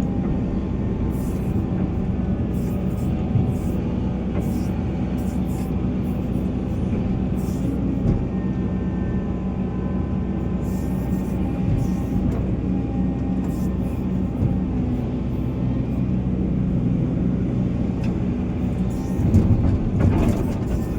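Volvo EC480 excavator's diesel engine running steadily under working load. There is a brief louder rumble near the end.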